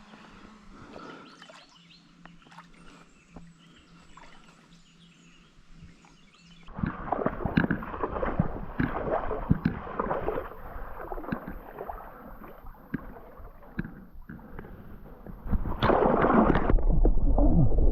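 Shallow river water splashing and sloshing as someone wades hurriedly through it, starting about seven seconds in after a quieter stretch, with a heavier low rumble near the end.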